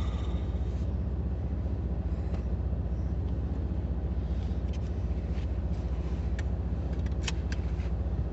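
Old Jeep's engine running steadily, heard from inside the cab, with a few faint clicks in the second half.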